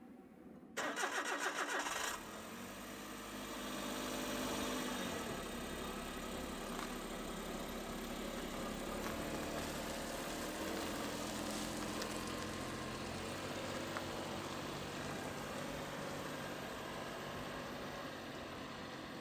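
A kei mini truck's engine starting: the starter cranks for about a second before the engine catches, then it runs up briefly and settles into a steady idle.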